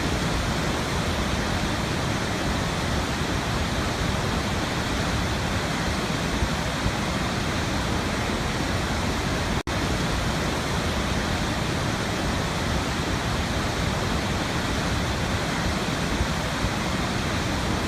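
Waterfall: a steady, even rush of falling water, broken once by a momentary dropout a little under ten seconds in.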